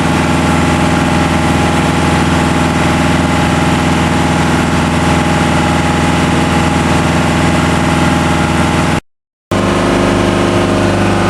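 TDME-490 marine diesel engine running steadily as the boat moves under way. About nine seconds in, the sound cuts out for half a second, then the engine resumes with a changed tone.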